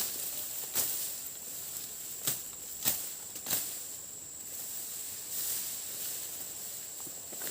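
A few sharp knocks and snaps, four in the first four seconds, from handling a fish trap and brush at a stream's edge. A steady high insect drone runs underneath.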